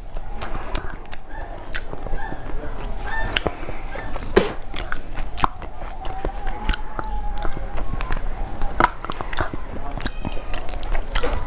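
Close-miked eating sounds: chewing a mouthful of rice and fish curry, with frequent sharp wet mouth clicks and smacks.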